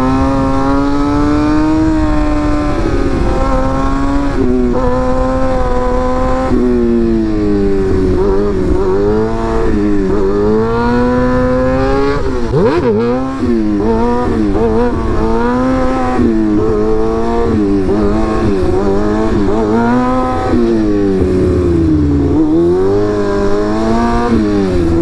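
Motorcycle engine running while riding. Its pitch climbs and drops sharply at each gear change in the first few seconds, then falls and picks up again as the bike slows and accelerates, over a low wind rush.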